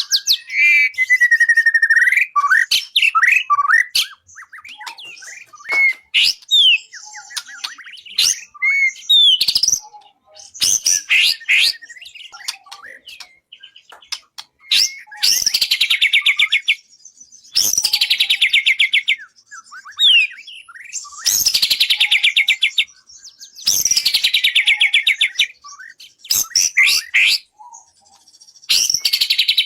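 A white-rumped shama (murai batu) sings a varied song. It opens with clear whistles gliding up and down, then gives a loud buzzy rattle, falling in pitch, every two to three seconds through the second half.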